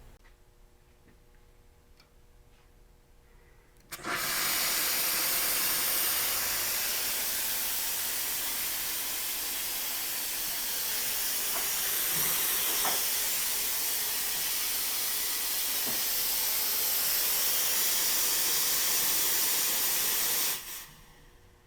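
Nuova Simonelli VFA two-group espresso machine's steam wand hissing steadily. It opens about four seconds in, runs for about sixteen seconds and is shut off abruptly near the end.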